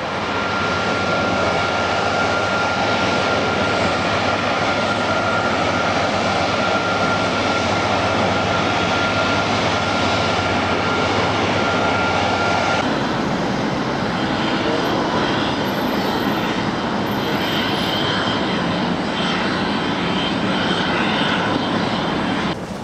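Jet airliner engines running: a steady loud rush with a thin high whine. About thirteen seconds in the whine drops away and the noise changes character abruptly.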